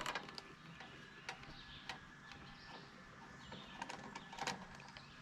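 Scattered light clicks and knocks of a screwdriver and metal mower parts being handled while a push mower is taken apart, five or six sharp taps spread unevenly over a few seconds.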